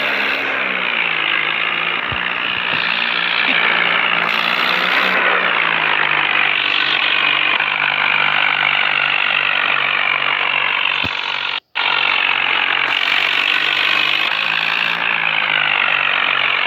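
Swaraj 855 tractor's three-cylinder diesel engine running steadily. Its pitch drops a little about a second in, rises briefly around four seconds and settles again. The sound cuts out for a split second about twelve seconds in.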